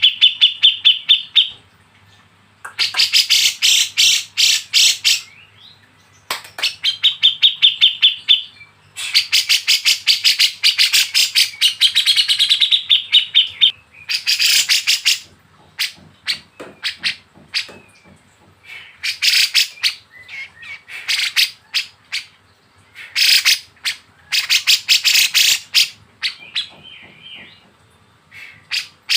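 A songbird singing in phrases of rapid, fast-repeated trilled notes, some held on one buzzy pitch and others sweeping, with short pauses between phrases.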